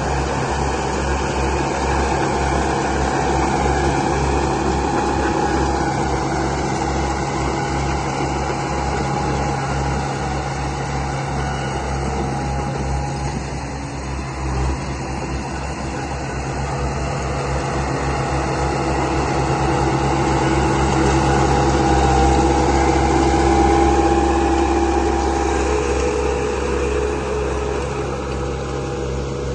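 Engine sound of construction machinery running steadily with a low throb. It eases off about halfway through and builds up again later.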